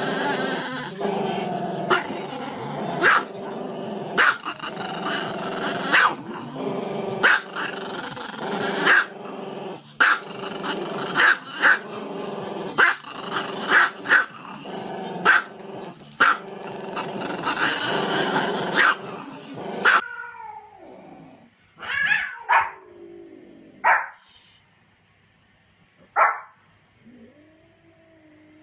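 Dogs growling and barking: a continuous growl under frequent sharp barks, every second or so. About two-thirds of the way through it changes abruptly to a quieter scene with only a few separate barks, a couple of seconds apart.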